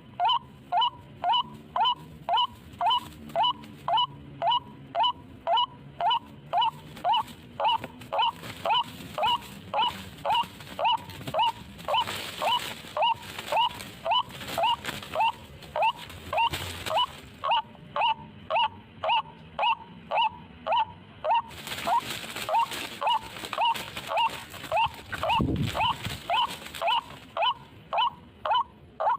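White-breasted waterhen (ruak-ruak) call repeated as a lure: short falling notes at an even pace of about two a second, without a break. Twice a rushing noise rises under it for several seconds.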